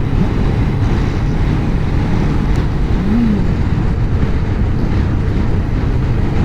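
Suzuki GSX600F's four-cylinder engine running at road speed under heavy wind noise, with one brief rise and fall in engine pitch about three seconds in.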